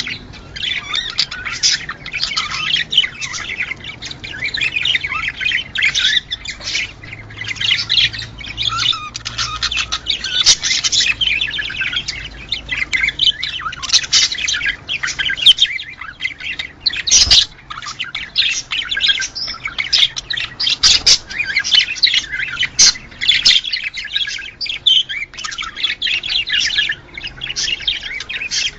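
A flock of budgerigars chattering and warbling without a break: rapid overlapping chirps with occasional squawks, the kind of flock sound played to stimulate budgies to breed.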